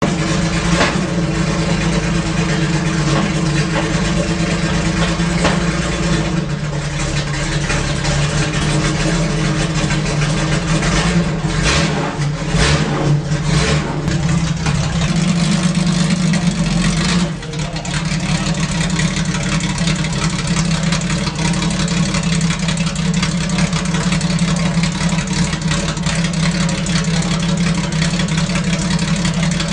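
Performance-built Jaguar 4.2-litre engine running steadily. A few sharp noises come about eleven to fourteen seconds in, and the level dips briefly near seventeen seconds.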